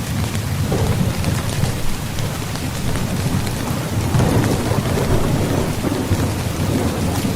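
Steady heavy rain with a continuous low rolling rumble of thunder, the rumble swelling about four seconds in.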